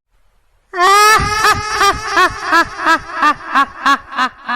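High-pitched cackling laugh of a ghost: a held opening cry that breaks into rhythmic 'ha-ha-ha' syllables about three a second, slowly fading.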